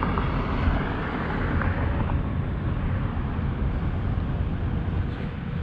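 Steady rush of wind and road noise while riding a 72-volt DIY e-bike, with no engine sound above it; the hub motor is close to silent.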